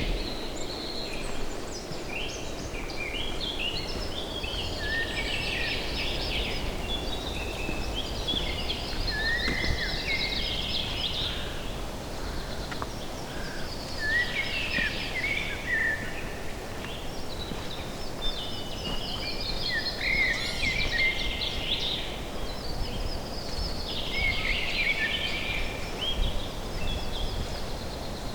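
Songbirds singing: bursts of quick chirping and trilled phrases that come and go every few seconds, over a steady low rumble.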